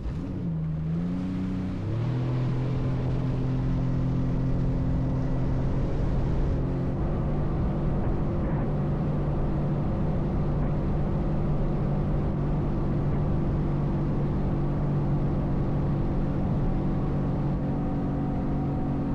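Sea-Doo jet ski engine speeding up, its pitch climbing over the first two seconds, then running at a steady cruising speed.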